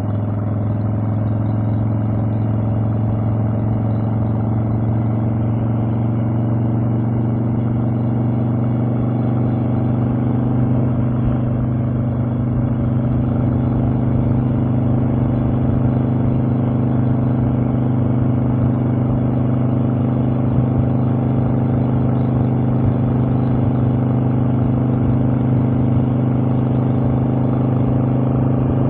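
Harley-Davidson Evolution air-cooled V-twin engine running at a steady cruising speed under way, its exhaust note holding an even pitch throughout.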